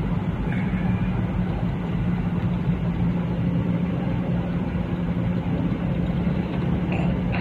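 Car-wash pressure washer running with a steady hum.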